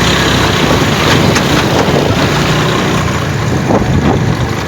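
Motor vehicle engine running steadily amid road noise, with wind buffeting the microphone while riding.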